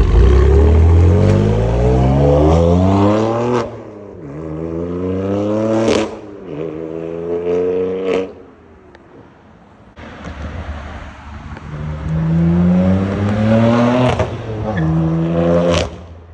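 BMW M4's twin-turbo inline-six revved repeatedly through an AWE Tuning SwitchPath exhaust with its valves open: the pitch climbs on each blip and drops back when the throttle is let off, four times, with a short idle between.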